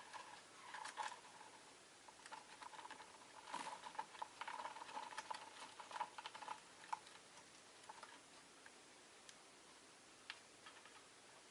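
Rosy-faced lovebirds making quick, soft clicking and ticking sounds, thick for the first seven seconds or so, then only a few scattered clicks.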